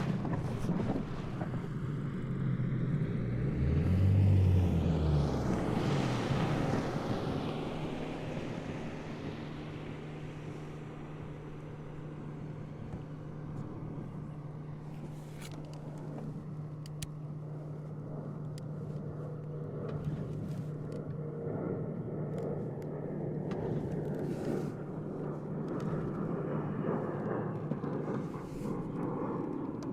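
Motorboat engine running with a steady low hum. About four seconds in, a louder engine sweeps past, its pitch bending down as it fades.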